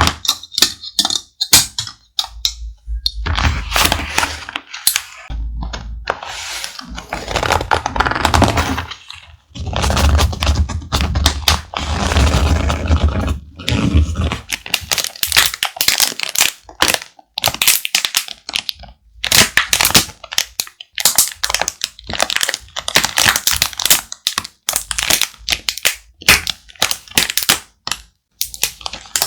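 Close-miked thick paper being handled, crinkled and pressed, giving dense, irregular crackling and sharp cracks with stretches of rustling.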